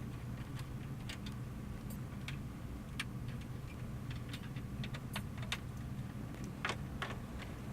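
Scattered light clicks and taps of hand tools working out the dash screws, with a low steady hum behind them.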